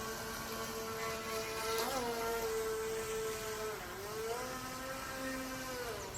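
Small electric motor of a mini RC speedboat whining steadily, its pitch dipping and recovering a few times.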